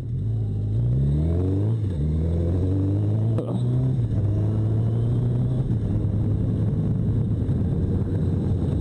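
1985 Honda Nighthawk 650's inline-four engine pulling away and accelerating, its pitch rising and then dropping at upshifts about two and three and a half seconds in, then holding steady at a cruise.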